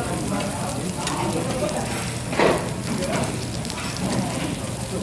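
Pork galbi sizzling on a restaurant tabletop grill, a steady crackling hiss, with background chatter and a brief louder clatter about two and a half seconds in.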